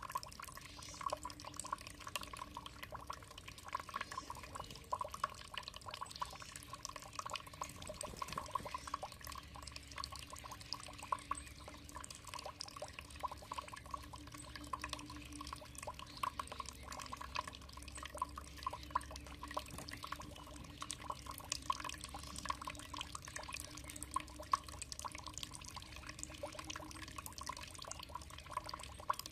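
Water trickling and dripping steadily, a dense run of small drips and splashes.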